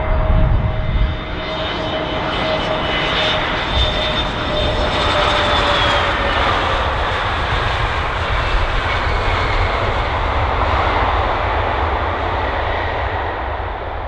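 Airliner passing close, its jet engines giving a steady rushing noise with a whine that falls in pitch about halfway through as it goes by.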